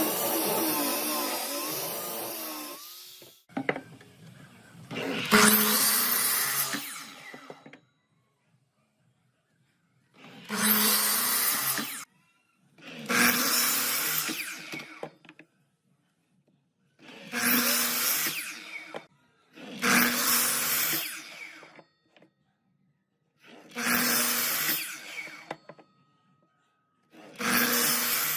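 A power tool running in repeated bursts of about two seconds each, starting and stopping sharply with silence between.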